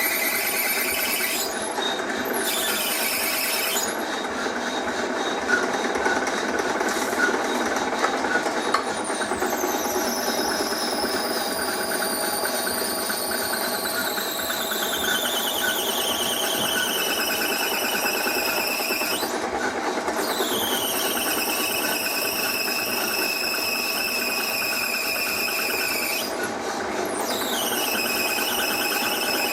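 A cutting tool squealing as it works a hard metal part, over the steady hum of the machine. The squeal slides slowly down in pitch, breaks off twice and starts again high each time.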